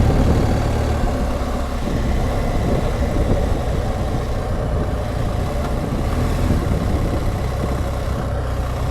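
Motorcycle's flat-twin engine running steadily while riding, with wind and road noise on the chin-mounted microphone.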